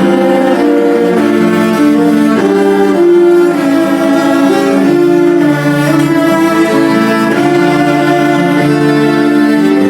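Ensemble of cellos playing a melody with sustained bowed notes over a lower accompaniment.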